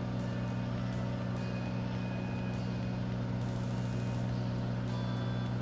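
Microwave oven running with a steady low hum while cooking a bag of microwave pork rinds, with a few faint ticks over it from the sizzling rinds.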